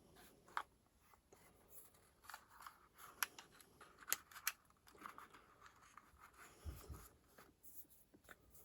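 Faint handling sounds on a workbench: scattered small clicks and scrapes, with a few sharper ticks in the middle and a soft thump near the end.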